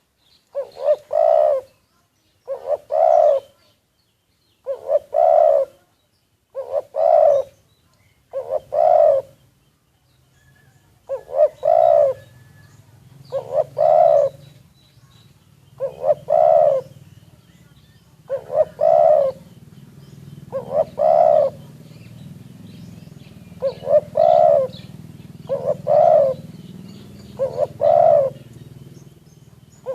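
Spotted dove cooing over and over, one multi-note coo phrase about every two seconds. A faint low hum sits under the calls from about a third of the way in.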